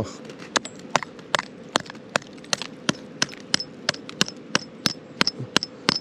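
Hammer knocking again and again at the foot of a camping chair leg frozen into icy ground, to break it loose. About sixteen sharp, evenly spaced knocks, two to three a second.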